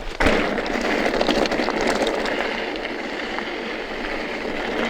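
Mountain bike rolling fast downhill on a rough track: a steady rushing noise of tyres over the ground, mixed with wind on the action camera's microphone.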